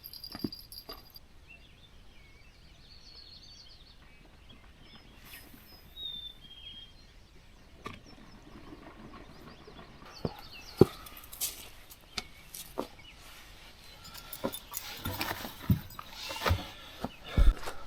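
Quiet outdoor morning ambience with a few faint bird chirps, then a run of sharp clicks and knocks, like handling or footsteps, that grows busier over the last several seconds.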